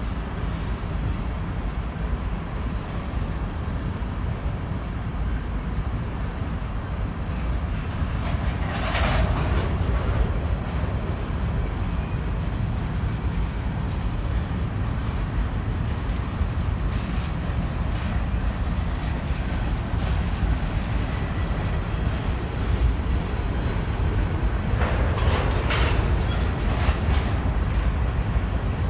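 A train rolling past, its wheels making a steady low rumble on the rails. Two brief, sharper noises stand out, about nine seconds in and again near the end.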